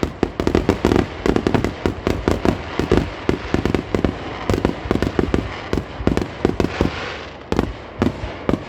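Fireworks grand finale: a dense, rapid barrage of aerial shell bursts, many bangs a second, with a hissing crackle swelling near the end.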